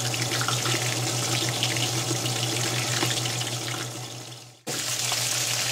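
Chicken wings frying in hot oil in a cast-iron pan under a glass lid: a steady sizzle with small crackles over a low steady hum. The sound fades out and cuts off about four and a half seconds in, then picks up again.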